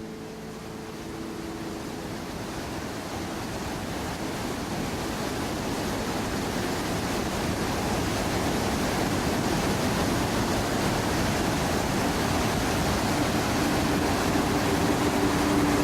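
Steady rushing water of a waterfall, slowly growing louder; a steady low hum comes in near the end.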